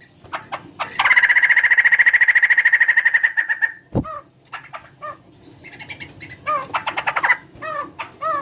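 Laughingthrush (poksay) calling: a loud, rapid buzzing trill lasting about three seconds, then, after a sudden low thump, a string of short down-slurred chattering notes with a brief rattle near the end.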